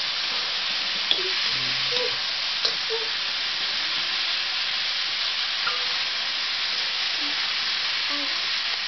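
Food sizzling as it fries in a metal pan over a wood fire: a steady hiss with a few sharp clicks.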